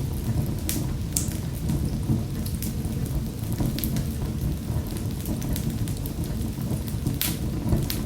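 Wood fire in a fireplace crackling: scattered sharp pops and snaps over a steady low rumble of the flames, with louder pops about a second in and again about seven seconds in.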